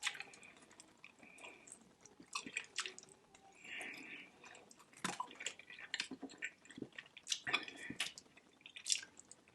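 Close-miked wet chewing and lip-smacking while eating barbecue ribs: a string of soft, irregular wet clicks and smacks.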